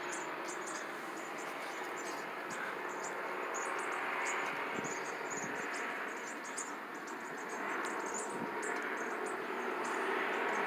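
Insects chirping in quick high bursts over the steady distant rushing of an aircraft, which grows louder near the end.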